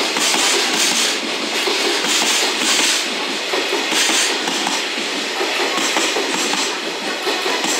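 Koki container flatcars of a freight train rolling past: steel wheels on the rails give a steady rumble, with a clatter recurring about once a second as the wheelsets cross rail joints.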